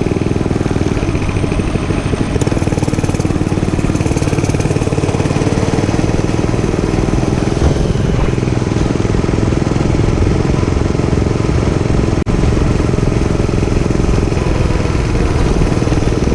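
Dirt bike engine running steadily, heard close up, with a brief dropout about twelve seconds in.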